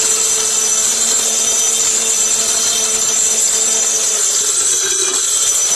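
Comet high-speed electric dry grinder running with a load of whole dried turmeric, its blades pulverising the roots into powder: a loud, steady motor sound with a high hiss. The pitch dips slightly about four and a half seconds in.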